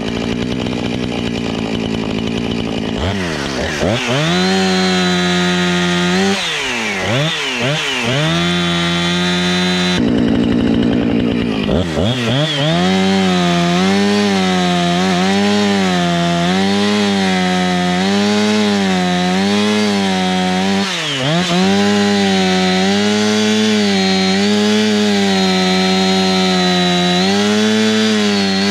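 Two-stroke gas chainsaw running at high revs and cutting wood with a dull chain. The engine pitch wavers steadily as the chain loads in the cut. Several times it drops sharply and climbs again as the throttle is let off and opened up.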